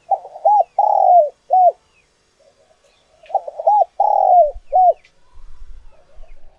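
Spotted dove cooing: two loud four-note phrases about three seconds apart, with faint, softer coos between them.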